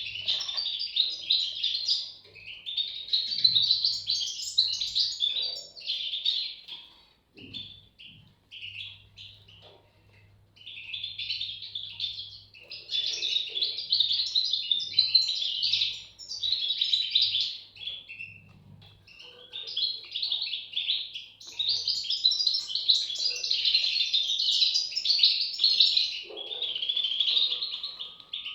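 European goldfinch chicks chirping rapidly and continuously, in long high-pitched runs broken by a few short lulls.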